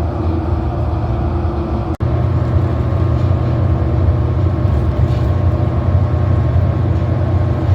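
Wind buffeting the microphone: a steady low rumble with a brief break about two seconds in.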